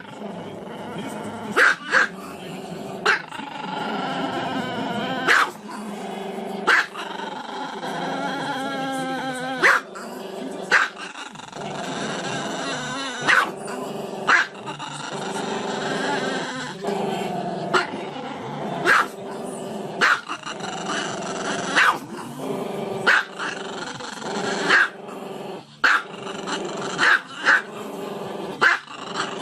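A dog growling continuously, broken by sharp, loud barks about every one to two seconds.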